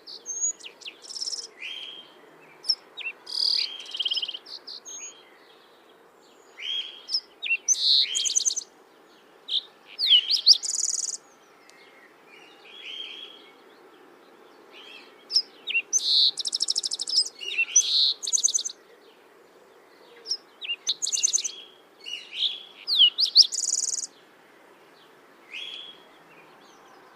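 Songbirds chirping and singing in short phrases every second or two, some with rapid buzzy trills, over a faint steady background noise.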